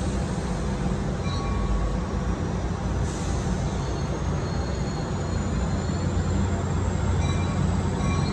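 Metro-North passenger train rolling slowly past the platform: a steady low rumble with a thin high whine that rises slowly through the second half.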